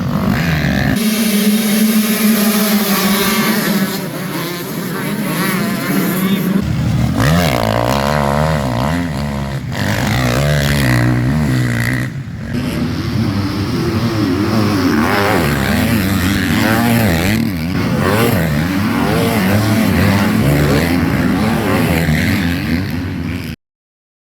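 Motocross bikes racing, their engines revving hard with the pitch climbing and dropping again and again through throttle and gear changes. The sound cuts off suddenly near the end.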